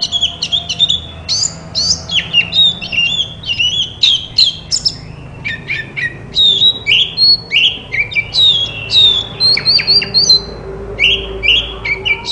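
Oriental magpie-robin (kacer) in full song: a fast, unbroken run of varied, high whistled and chirping notes that sweep up and down, a few of them harsher.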